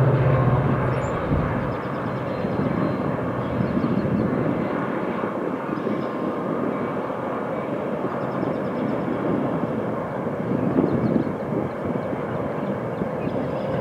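Metra commuter train crossing a steel truss railway bridge: a steady rumble and rush of the train rolling over the bridge, with the diesel locomotive's low hum fading out about a second in.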